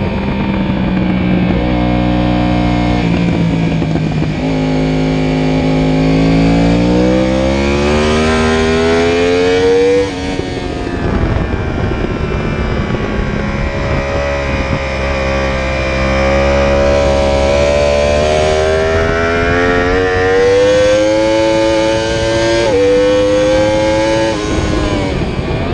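Sport motorcycle engine at full throttle on track, its pitch climbing steadily as it pulls, cutting off sharply about ten seconds in when the throttle is shut, then climbing again in a long second pull with a quick upshift near the end, over steady wind rush.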